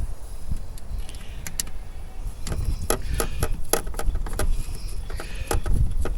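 Irregular metallic clicks and clinks as 10 mm nuts are fitted onto the studs of a new car door check (the strap that stops the door from swinging open too far), over a low rumble.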